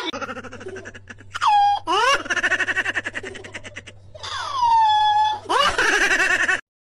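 Domestic orange tabby cat yowling: several loud, drawn-out meows, some rising and some falling in pitch, with a stretch of rapid stuttering calls between them.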